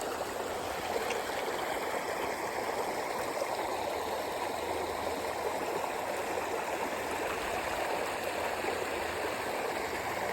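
Water running steadily over a small stream waterfall, an even, continuous rushing.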